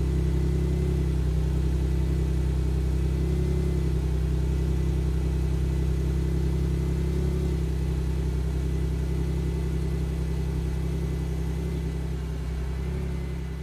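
Audi S4 B8's supercharged 3.0 V6 idling steadily after a cold start, heard at its stock exhaust tips as an even low hum. It grows a little fainter near the end.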